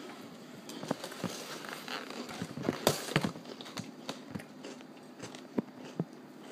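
A person chewing a mouthful of crunchy coloured-ring cereal close to the microphone, with scattered clicks and knocks, the loudest a cluster about three seconds in.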